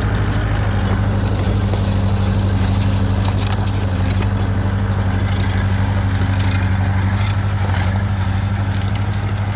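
Heavy construction machine's diesel engine running steadily under load, with a continuous metallic rattle over it.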